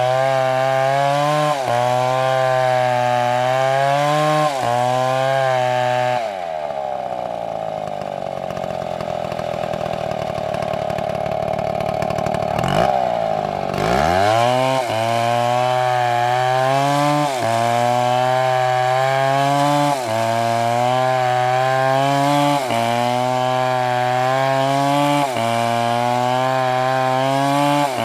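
MS720 chainsaw cutting into a large tree trunk at full throttle, its engine pitch dipping and recovering every couple of seconds as the chain bites into the wood. About six seconds in it drops to a lower, quieter running speed for several seconds, then revs back up and carries on cutting.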